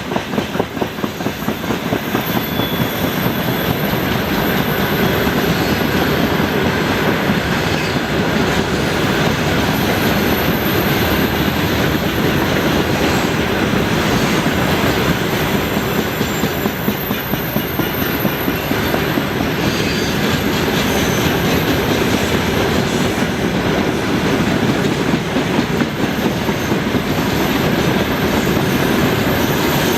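Freight train wagons rolling steadily past at close range: a continuous rail rumble with a rhythmic clickety-clack of wheels over rail joints, and now and then a brief, faint wheel squeal on the curve.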